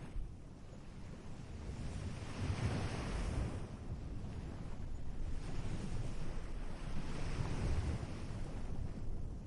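Ocean surf on a beach: waves breaking and washing in, swelling twice, with a low rumble of wind on the microphone underneath.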